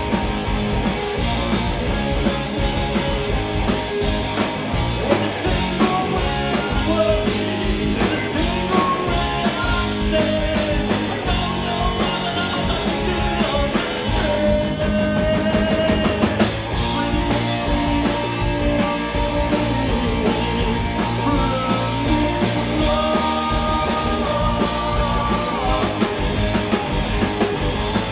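Live punk-leaning rock band playing: distorted guitars, bass and a full drum kit, with some singing over the top.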